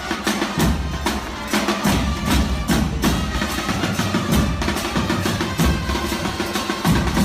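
Drums and percussion playing a steady, driving beat, with low drum thuds under sharper wood-block-like strikes.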